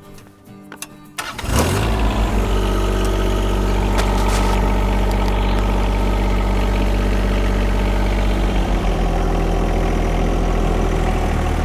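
John Deere 1025R compact tractor's three-cylinder diesel engine starting. It catches suddenly about a second and a half in, then runs steadily and loudly.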